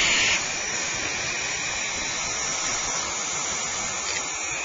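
A barn owl's drawn-out hissing screech cuts off about half a second in. A steady hiss follows.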